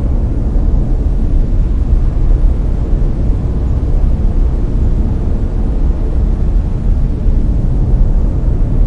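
Steady, loud brown noise: a deep, even rumbling hiss, strongest in the bass and fading toward the treble, with no changes or events.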